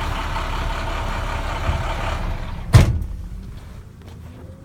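International MaxxForce DT diesel engine idling, then shutting down about two and a half seconds in, cut off by its five-minute idle-shutdown timer. A single loud thump comes as it stops.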